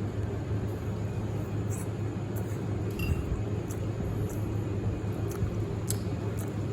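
Cutlery clinking lightly against a plate while eating, several short scattered clinks, over a steady low hum.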